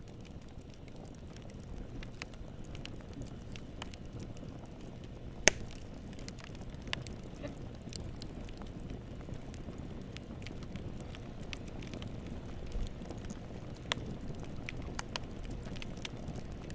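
Fire crackling in a fireplace: a low steady rumble of burning with scattered sharp pops, one much louder pop about five and a half seconds in.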